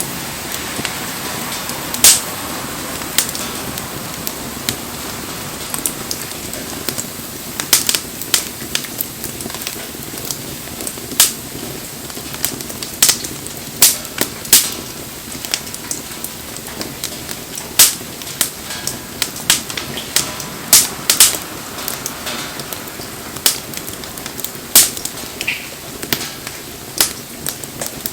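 Wood bonfire crackling, with sharp pops at irregular intervals, a few a second at the busiest, over a steady hiss of rain.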